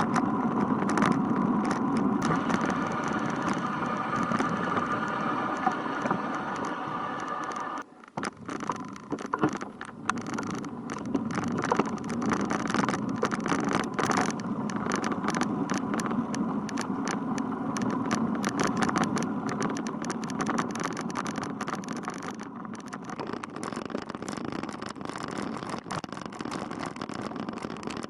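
Road traffic noise with many sharp crackles and knocks throughout; the sound drops away suddenly for a moment about eight seconds in.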